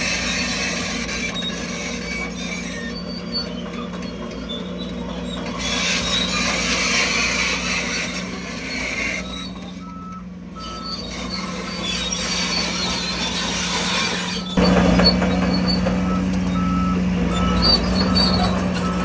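Heavy earthmoving machinery running, with a steady diesel engine drone and a reversing alarm beeping over and over from about halfway in. The engine noise steps up sharply about three-quarters of the way through.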